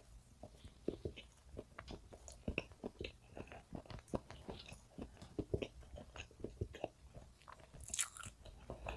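Close-miked chewing of a mouthful of soft black sesame castella sponge cake: faint, irregular wet mouth clicks and smacks, with a somewhat louder mouth sound near the end.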